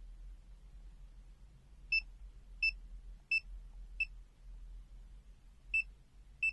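UNI-T UT60S multimeter's buzzer beeping in non-contact voltage (NCV) mode: short, high beeps, four about two-thirds of a second apart starting about two seconds in, then two more near the end. The beeping signals that the meter is sensing voltage from a nearby live wire.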